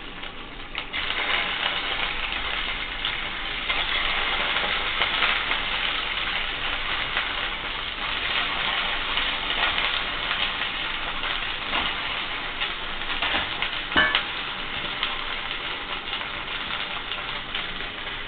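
Semolina (suji) balls sizzling as they shallow-fry in hot oil in a kadai, the sizzle growing louder about a second in as more balls go into the pan. One sharp click near the end.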